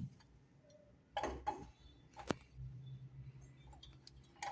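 Faint handling sounds of a washing machine's drum shaft and bearing assembly being pulled out and moved: a short scrape about a second in, then a single sharp metallic click, with a faint low hum starting near the middle.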